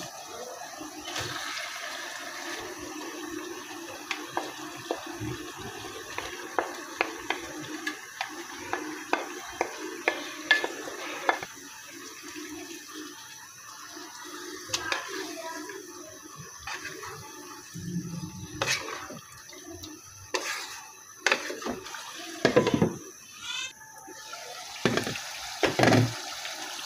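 Chicken and masala sizzling in a kadai, with a spatula knocking and scraping against the pan many times and a few louder knocks near the end.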